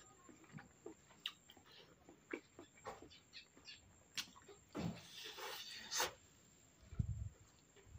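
Close-miked eating sounds: wet mouth clicks and chewing, with a run of crunchy bites around five to six seconds in and a few low thumps near the end.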